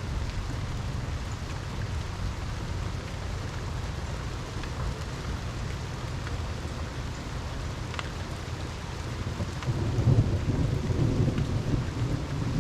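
Steady rain falling, with a few distinct drops striking close by. About ten seconds in, a low roll of thunder swells up under the rain.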